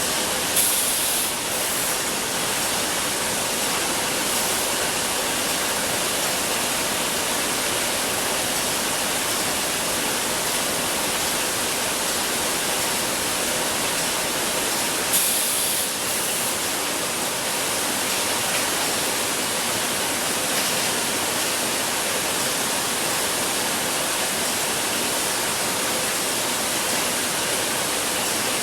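Steady hiss and whir of bottled-water production line machinery, with two short, sharper hissing bursts, one about half a second in and one about halfway through.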